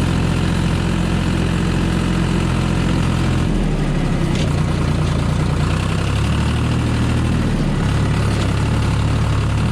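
A tractor engine running steadily while round bales are being moved. Its note shifts about a third of the way in and again about three quarters of the way through as the engine speed or load changes.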